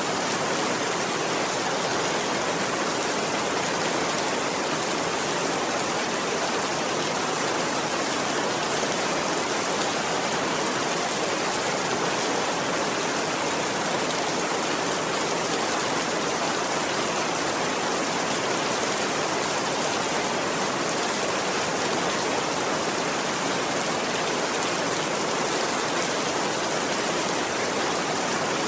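Steady rainfall, an even hiss of rain that holds constant throughout.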